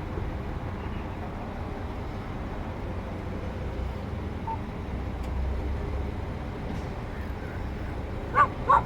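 Steady low rumble of vehicle noise. Near the end a dog starts barking, three sharp barks in quick succession.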